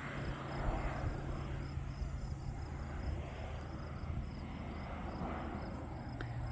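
Crickets chirping in a steady, evenly pulsing rhythm over a low steady hum, with one brief click near the end.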